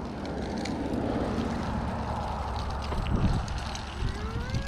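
Wind rushing over the microphone and a low rumble while riding a bicycle, with a short rising tone near the end.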